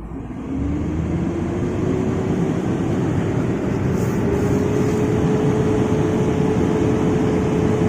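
IVECO 420 truck's diesel engine revving up hard and then holding at high revs under heavy load, with a steady whine that climbs in pitch over the first few seconds and then levels off. The truck is straining to climb a sandy slope with a loader on its trailer and barely making headway.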